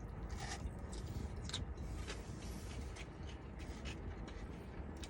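Chewing a mouthful of fried chicken slider with pickle and slaw, with a few soft crunches and mouth clicks over a steady low hum.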